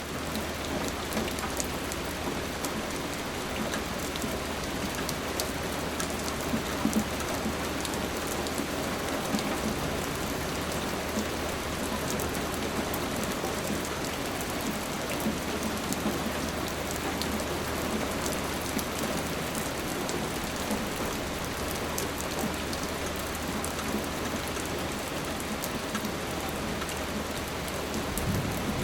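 Steady rain falling on a surface, with many individual drops ticking through the hiss over a faint low rumble.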